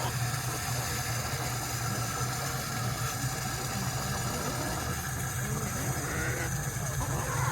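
Steady low mechanical hum with an even hiss while water runs into a chicken waterer, with faint clucking near the end.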